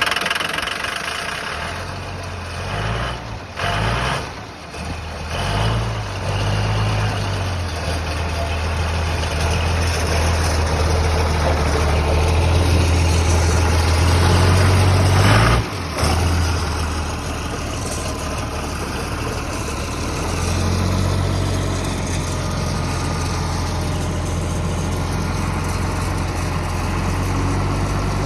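John Deere front end loader's diesel engine running just after a cold start with freshly bled injectors. It runs unevenly for the first several seconds, then settles into a steady run. Its revs climb and then drop sharply about fifteen seconds in, before it holds a steady idle.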